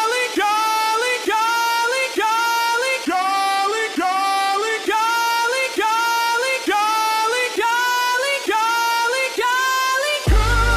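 Singing voice repeating the same short rising phrase about once a second, with little or no accompaniment; a bass-heavy band comes in near the end.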